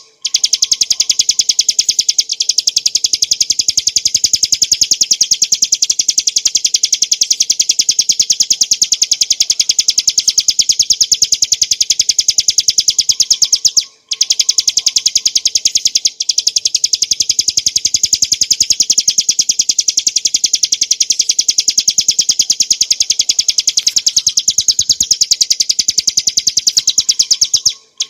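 Ciblek gunung, a small prinia, singing a fast, unbroken string of high, sharp repeated notes, many to the second. The song pauses briefly about halfway through, then resumes.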